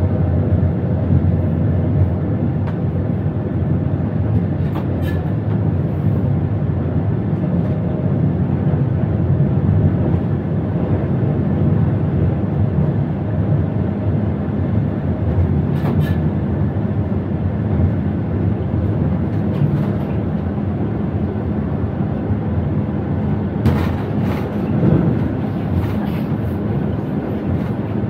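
Steady rumble of an Israel Railways electric passenger train running at speed, heard from the driver's cab, with a few short clicks about 5 and 16 seconds in and a cluster of them near the end.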